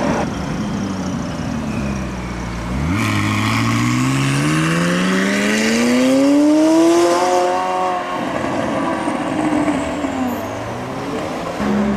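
McLaren 600LT's twin-turbo V8 accelerating hard. About three seconds in its note starts climbing steadily for some four seconds, with a rasping hiss over it, then holds briefly and falls away.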